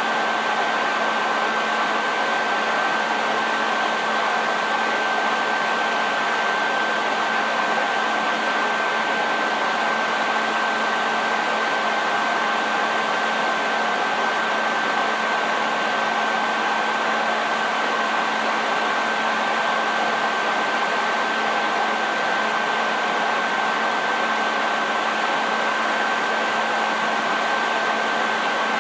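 Hair dryer running continuously: a steady rush of air with a constant high whine from the motor and fan.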